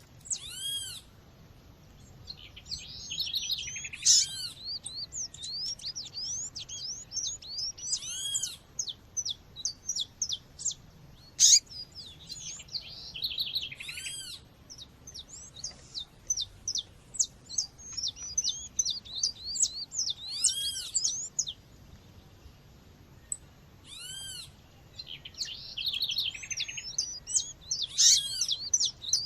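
Female seedeater (coleiro or papa-capim, Sporophila) calling amid a background of other wild birdsong. Many quick high chirps run throughout, and a louder, arched call note comes back every three to four seconds.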